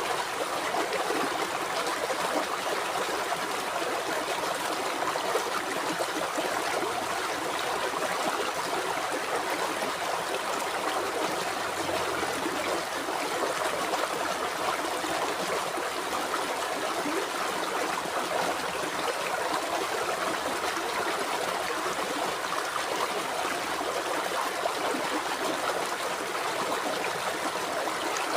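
River water flowing and babbling steadily over stones, a continuous dense rush with fine trickling and gurgling detail.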